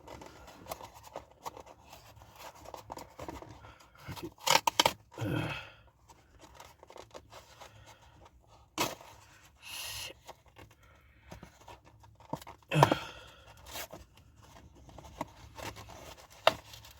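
Takeout food packaging being torn and pried open in fits: short tearing and scraping noises come a few seconds apart, with the loudest bursts about five seconds in and about thirteen seconds in, as it resists opening all the way.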